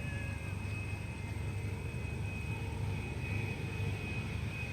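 Bombardier Challenger 350 business jet's twin turbofan engines running steadily on approach: a low, even rumble with a thin, steady high whine.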